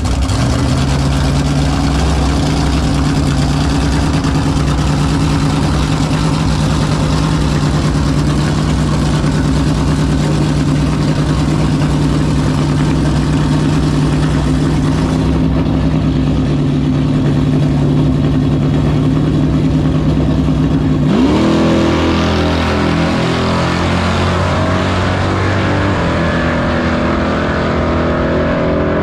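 Muscle car engines running loudly at a steady pitch; about two-thirds of the way in one revs up sharply, then its pitch steps up and down as it accelerates.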